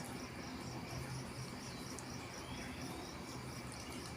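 Crickets chirping in an even, pulsing rhythm, about three to four chirps a second, over a faint steady low hum.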